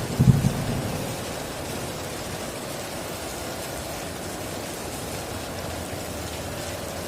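Heavy rain falling steadily, with the tail of a thunder rumble fading out within the first second.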